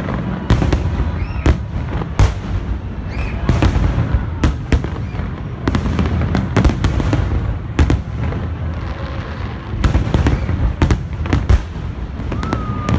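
Aerial firework shells bursting in a large display: a continuous low rumble of reports with sharp bangs about once or twice a second.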